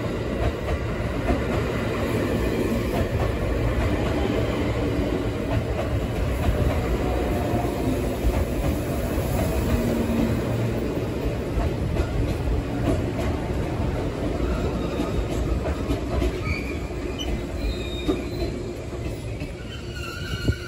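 JR 285 series Sunrise Express sleeper train moving past a station platform at low speed, with a steady rumble of wheels on the rails and the running gear.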